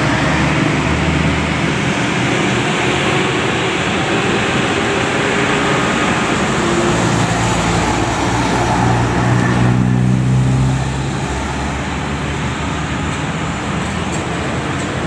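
Road traffic: a heavy vehicle's engine running close by under steady road noise, growing louder until about ten seconds in, then dropping off as it moves away.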